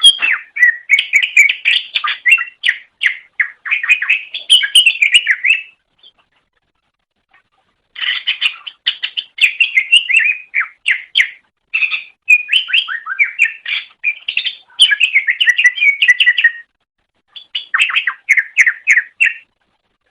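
Greater green leafbird (cucak ijo) singing in rapid runs of quick, varied chirping notes, in bursts a few seconds long, with a pause of about two seconds around six seconds in.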